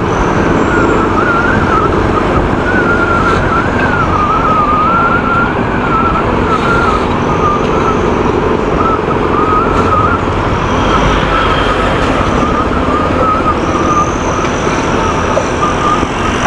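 Motorcycle riding noise: engine and wind rushing past steadily, with a thin high whistle that wavers slightly in pitch throughout.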